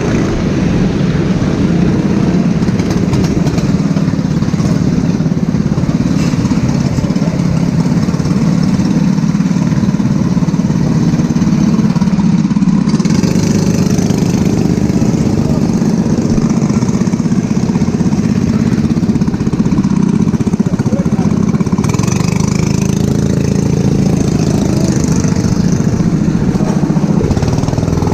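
Go-kart engine running steadily on track, heard close up. A higher hiss joins about halfway through and again later.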